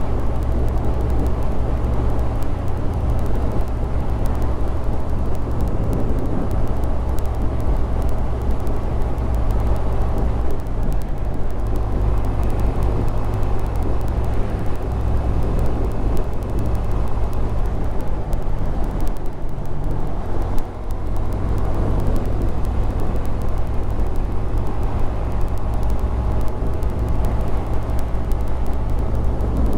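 Honda Grom 125's small single-cylinder four-stroke engine running under way, with heavy wind rumble on the microphone. The sound drops briefly about twenty seconds in.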